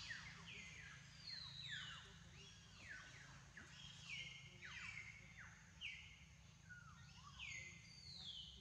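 Faint bird calls: many high notes sliding down in pitch, often overlapping, about one or two a second, over a low steady hum.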